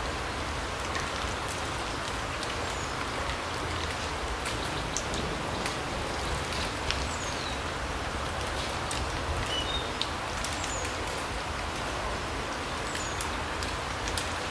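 Autumn larch forest ambience: a steady rain-like hiss with scattered drops ticking, and a few brief high bird chirps.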